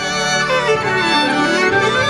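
Instrumental music with a violin carrying the melody: a run of notes falls and then climbs back, over held accompanying notes.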